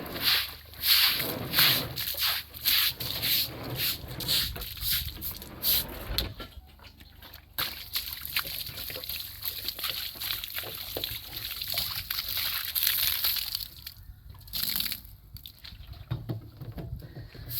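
Water sloshing and splashing in repeated strokes, one or two a second, then a steadier stretch of splashing before a few more strokes near the end.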